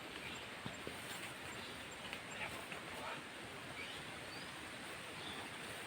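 Faint outdoor ambience with a few brief, high bird chirps and small scattered rustles and clicks.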